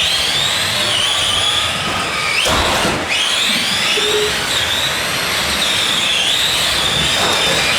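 Electric motors and gear trains of several Tamiya Euro Truck RC racing trucks whining at speed, the high pitch rising and falling with the throttle, with a sharp surge about two and a half seconds in.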